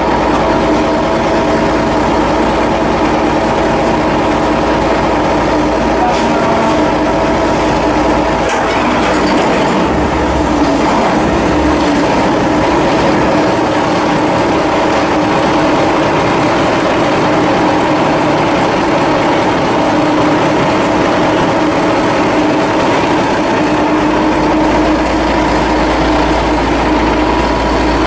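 Steady, loud machinery running with a constant hum. Its deepest rumble drops out about a third of the way in and comes back near the end.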